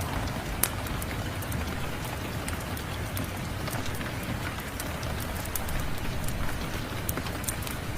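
Steady rain mixed with a crackling wood fire: an even rushing hiss with scattered sharp snaps and pops, a louder one just under a second in.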